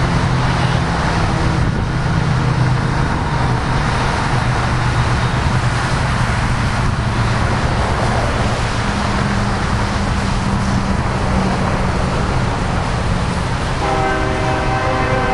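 Steady noise of freight trains passing, mixed with highway traffic. About a second before the end, a train's air horn starts sounding, a chord of several tones held steady.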